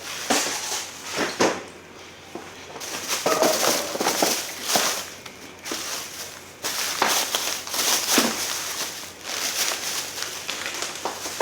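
Plastic grocery bags rustling and crinkling, with irregular short knocks of items being handled and set down.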